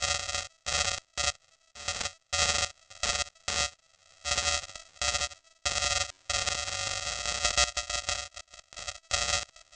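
Young crows giving harsh, nasal begging calls while being fed, in short irregular bursts. Several calls run together for about two seconds past the middle.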